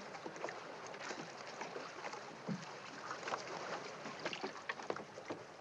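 Water sloshing around a small rowboat at a dock, a steady wash of noise with scattered light clicks and knocks.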